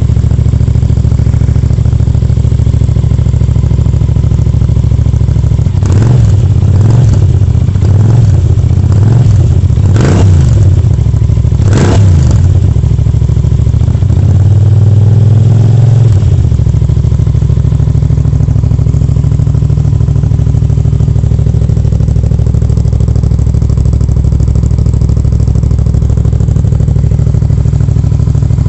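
Yamaha TDM 900 parallel-twin motorcycle engine running through a G.P.R. Evolution exhaust with the dB killer removed. It idles, is blipped several times partway through, holds slightly raised revs for a couple of seconds, then settles back to a steady idle.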